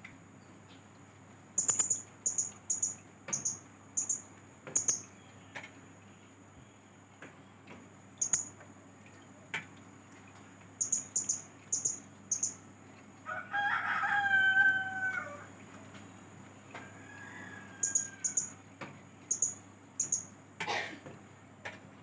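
A young blue-crowned hanging parrot (serindit) calling in short, very high-pitched chirps, in quick runs of several at a time, as it practises its calls. Near the middle there is also a longer, lower call lasting about two seconds.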